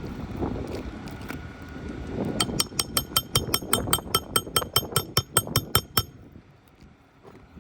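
Wind rumbling on the microphone, then a hammer tapping rapidly on metal: a steady run of light, ringing taps, about five a second for nearly four seconds, that stops abruptly. This fits a roofing nail being driven to refasten an asphalt shingle.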